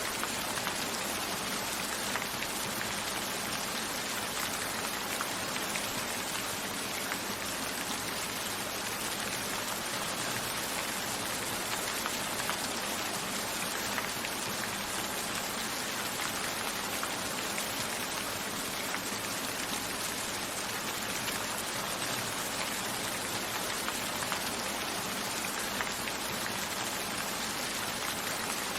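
Steady rain falling: an even hiss of many drops, with individual drops pattering on a surface.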